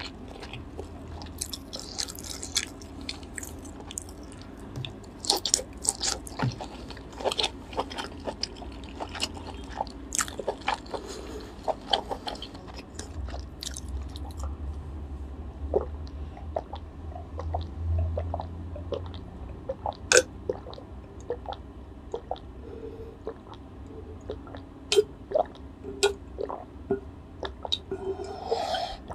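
Close-miked chewing of grilled lobster meat, with many short wet mouth clicks and smacks. Near the end, gulps of water drunk from a glass jug.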